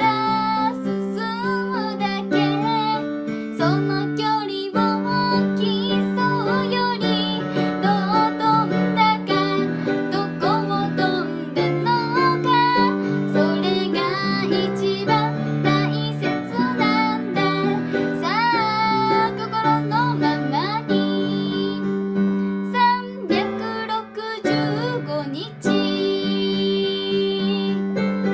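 Piano chords and melody played continuously, with a woman's voice singing a wavering melody with vibrato over it.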